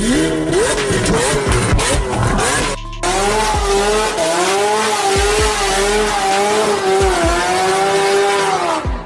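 A car engine revving up in quick rising sweeps, then, after a cut, tyres squealing in one long wavering squeal over the engine noise.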